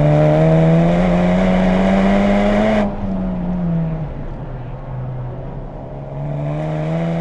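2020 Honda Civic Type R's turbocharged 2.0-litre four-cylinder engine, exhaust through an HKS Legamax system, heard from inside the car. It climbs in revs under acceleration, then the throttle is lifted suddenly about three seconds in and the revs fall away. After a short steady stretch it starts pulling up in revs again near the end.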